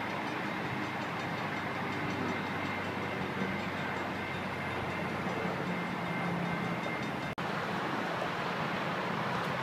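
Diesel passenger train running away in the distance: a steady rumble and hiss with a faint thin high whine. About seven seconds in the sound cuts out for an instant and gives way to a similar steady background noise.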